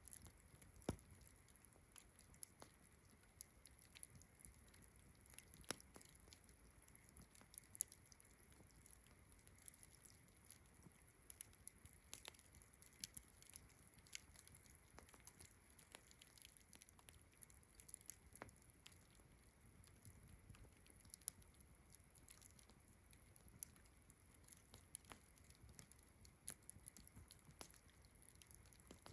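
Wood campfire crackling, with irregular sharp pops and snaps, a few much louder than the rest. Behind it runs a faint, steady, high-pitched chorus of crickets.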